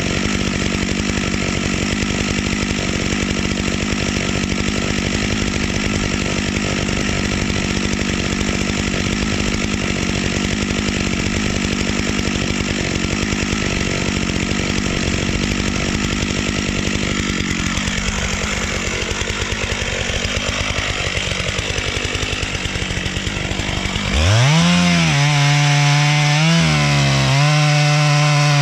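Large two-stroke chainsaw running under load as it cuts into a tree trunk, a steady, dense engine sound. About four seconds before the end the engine gets louder and its pitch climbs sharply to a high whine, dips once briefly, then holds high.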